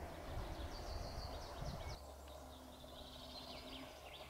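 Faint songbirds calling, series of quick high chirps and trills, over a low background rumble.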